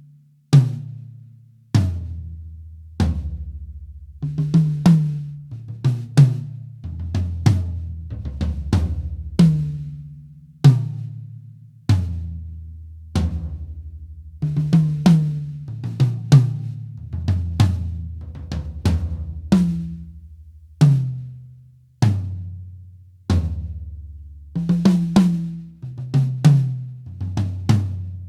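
Sonor SQ1 drum kit played in grooves and fills around the toms, with bass drum and snare or hi-hat strokes. Each tom stroke is a short pitched thud that dies away quickly, and the notes step between the differently sized toms.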